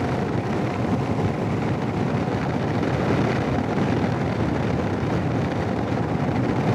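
Steady wind noise on a helmet intercom microphone while riding a Royal Enfield Himalayan motorcycle, with the bike's single-cylinder engine running underneath.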